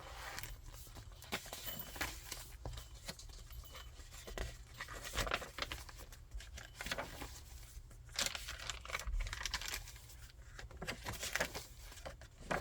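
Pages of a chunky handmade paper junk journal being turned and handled, with irregular rustling, crinkling and soft paper flicks.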